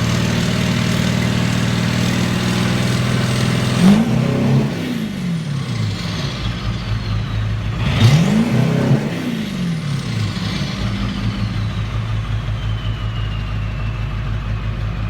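Straight-piped 7.3-litre diesel V8 idling, blipped twice about four seconds apart, each rev rising and dropping quickly back to idle. A high whistle falls away slowly after each rev.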